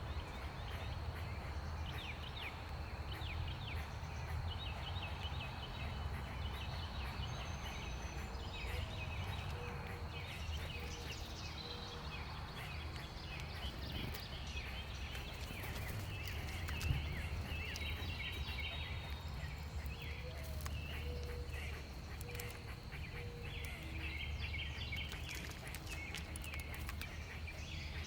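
Small birds chirping over and over over a steady low outdoor rumble, with scattered light taps. The chirping grows busier in the second half.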